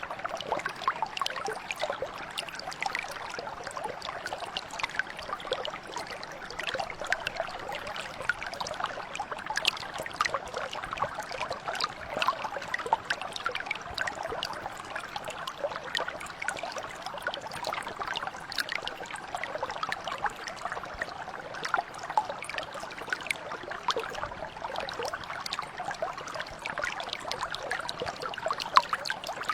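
A small stream or brook flowing steadily over stones, a continuous babble of many small splashes and trickles.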